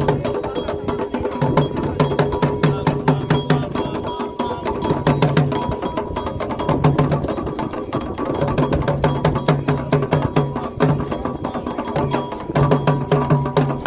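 Candomblé percussion: atabaque hand drums play low strokes in short runs over a dense, rapid, sharp clicking rhythm part with a ringing metallic tone.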